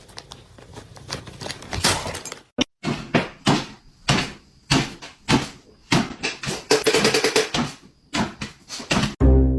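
A string of sharp knocks and clatters, irregular, about one or two a second. Music with plucked strings starts near the end.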